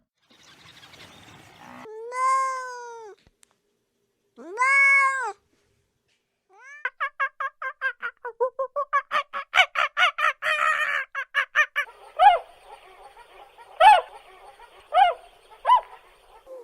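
Domestic cat meowing: two long, drawn-out meows, then a fast run of short mews, then a few more single meows.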